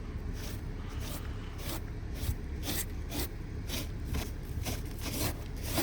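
Snow crunching and scraping in short strokes, about two a second, over a steady low rumble.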